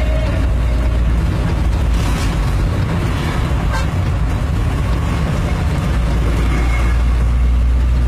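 Tata 4018 trailer truck's diesel engine running with a steady low rumble, which grows stronger near the end.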